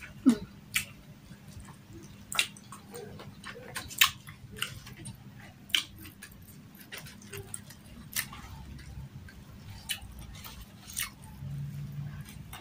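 Close-miked eating by hand: chewing with sharp, wet mouth clicks and smacks every second or two, irregularly spaced, over a faint steady hum.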